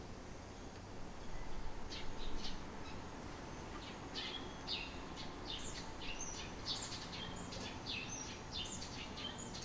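Small birds chirping: a rapid run of short, high calls starting about two seconds in, over a low steady background noise.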